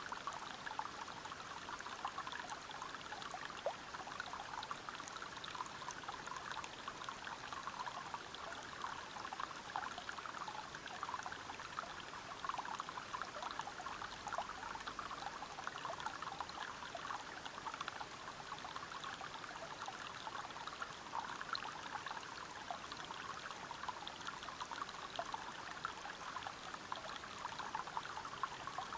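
A river running over rocks, its flow steady and full of small splashes and gurgles.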